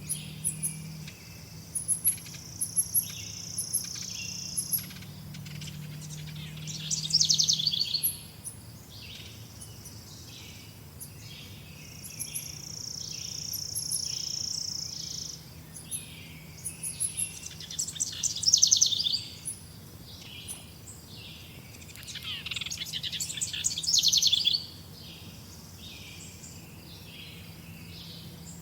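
Several birds chirping and calling: a regular run of short repeated notes a little faster than once a second, fast rattling trills that recur three or four times, and two long, steady, high buzzing notes. A faint low hum lies underneath.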